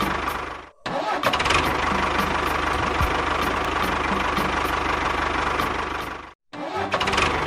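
An engine running steadily with a regular knock. It cuts off abruptly to silence twice and comes straight back, as if starting up again, after each cut.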